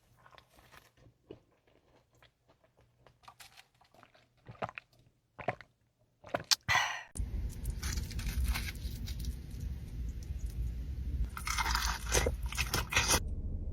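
Close-miked eating: crisp crunching bites and chewing of fried food. Sharp crackles are scattered through the first half. About seven seconds in, a steady low background hum comes in, with two louder clusters of crunching.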